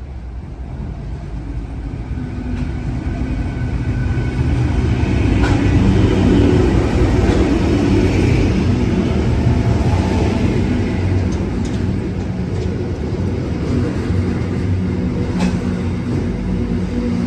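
A train running through the station, its rumble building over the first few seconds and then holding steady, with a few sharp clicks along the way.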